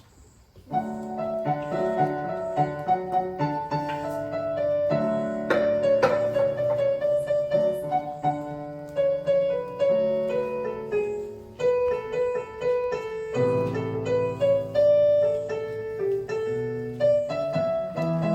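Keyboard with a piano sound playing the instrumental introduction of a hymn in march time, chords under a melody, starting about a second in.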